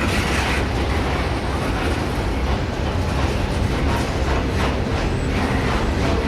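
Norfolk Southern train rolling past at close range: a steady rumble of wheels on rail with scattered faint clicks.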